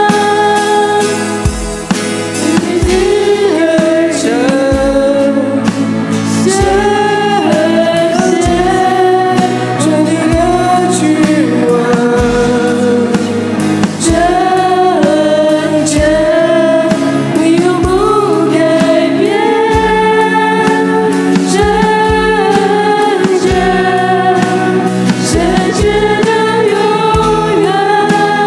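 Christian worship music: singing voices over band accompaniment with a steady beat.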